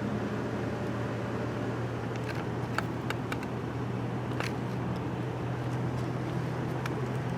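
Steady low engine hum under an even rush of noise, with a few faint clicks between about two and seven seconds in.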